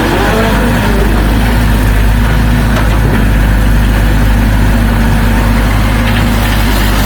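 Heavy diesel engine of an earthmoving machine running steadily at a low, even speed.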